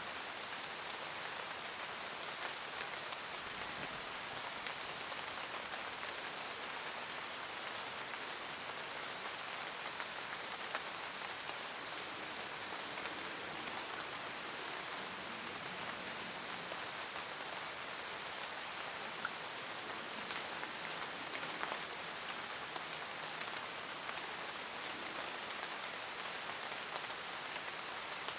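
Steady rain falling in a forest: an even hiss of rain with scattered sharper drop hits.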